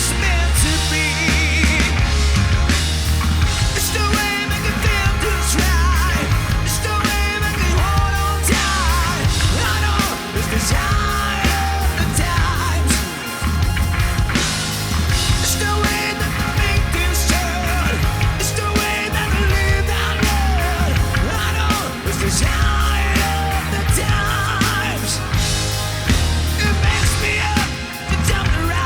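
A live rock band playing loud and steady, with drums, bass and electric guitars and a wavering lead voice or guitar line over them.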